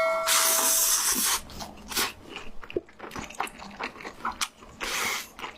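Close-miked eating: a loud noisy slurp for about the first second, then wet chewing clicks and smacks, with another short slurp near the end.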